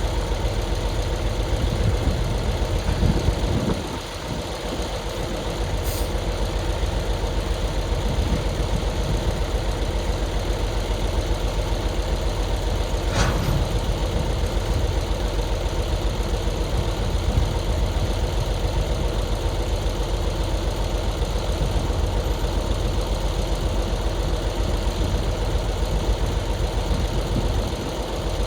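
Heavy diesel engine running steadily, briefly dipping in loudness about four seconds in.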